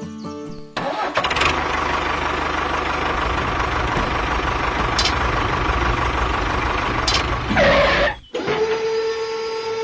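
A small machine or motor running with a rough, steady noise and a low rumble. It cuts off abruptly about eight seconds in, and a steady humming tone follows.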